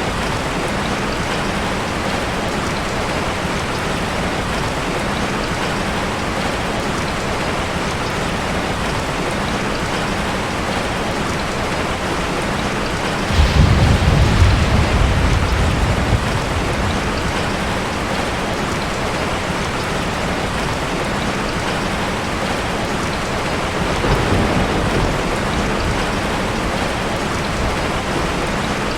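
Heavy rain falling steadily, with a sudden low rumble of thunder about halfway through that lasts a few seconds, and a fainter rumble near the end.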